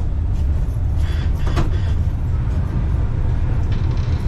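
Steady low rumble of a passenger train carriage in its door vestibule, with a few short knocks about a second and a half in as the carriage door is unlocked and opened.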